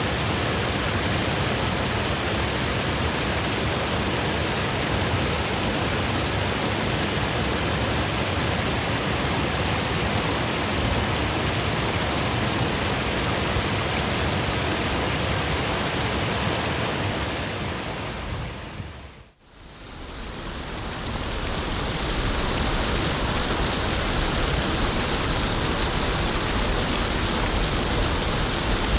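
A stream running over rocks and small dams: a steady, even rush of water. About two-thirds of the way in it fades down and swells back up as one recording gives way to another.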